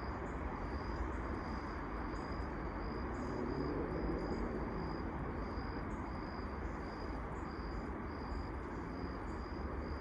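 A cricket chirping steadily, a high short pulse repeated about twice a second, over a steady low rumble of background noise.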